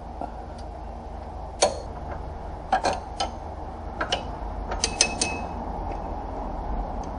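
About ten sharp, irregular clicks and light knocks of metal parts being handled, over a steady low hum.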